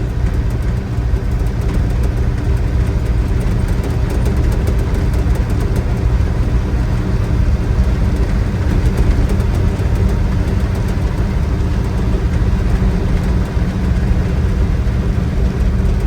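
Old pickup truck being driven, heard from inside the cab: the engine runs steadily under way, mixed with road and tyre noise.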